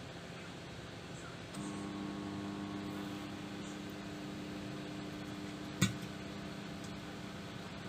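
Microwave oven running with a steady hum. About a second and a half in, the hum steps up louder with a low buzz, typical of the magnetron switching on at a reduced power setting. A single sharp click comes near the end.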